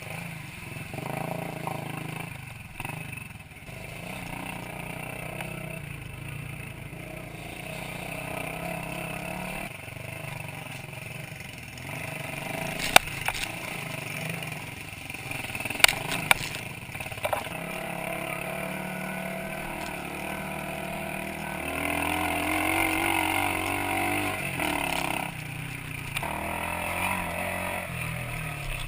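Minsk 125cc two-stroke single-cylinder motorcycle engine running under way, its revs rising and falling, with a few sharp knocks partway through.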